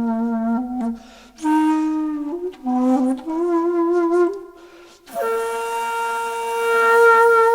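Background music: a solo wind instrument playing a slow melody in short phrases, then holding one long note from about five seconds in.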